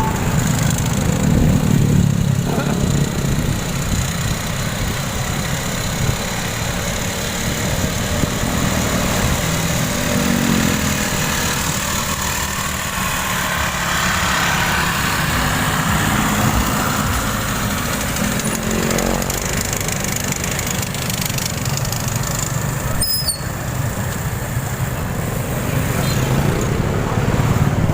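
Road traffic heard from a moving bicycle: a steady rumble of motor vehicles, including motorcycles, with engines rising in pitch as they speed up about ten seconds in and again later.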